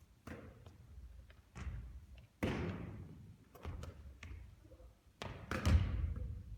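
Basketball thudding on the court: about six separate impacts, each ringing out briefly, the loudest one about two and a half seconds in and one near the end.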